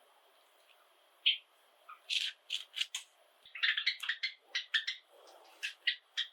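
Java sparrows chirping: a couple of separate short calls, then from about two seconds in a quick, busy run of short chirping notes.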